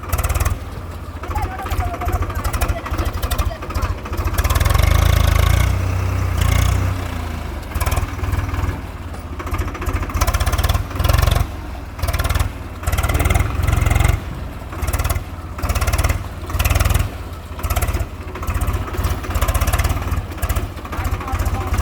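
Swaraj 735 FE tractor's three-cylinder diesel engine running, heavy and low. In the second half its level swells and drops about once a second.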